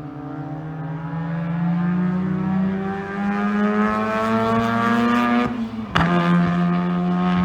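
Race car engine pulling hard, revs climbing steadily for about five seconds. About six seconds in comes one sharp pop, a backfire that throws flames, and the revs drop as it shifts up and keeps running.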